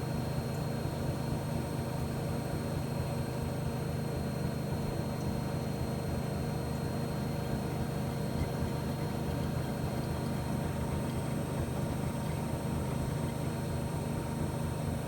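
Miele MedicWash W2585 front-loading washing machine running a wash programme, a steady low hum that stays even throughout.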